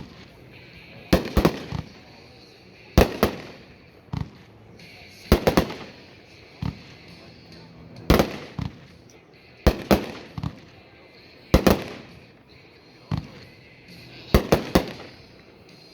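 World Class Honor and Respect firework being set off: loud, sharp reports every second or two, several of them coming in quick pairs or triplets.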